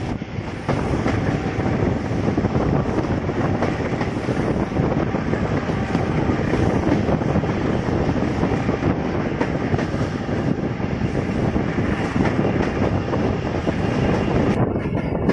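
Intercity express train passing close by on the track, its wheels rumbling and clattering over the rail joints; the noise rises sharply about a second in and stays loud.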